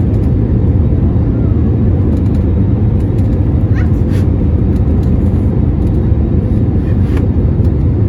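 Steady, loud rumble of an airliner cabin in flight: engine and airflow noise, even and unchanging.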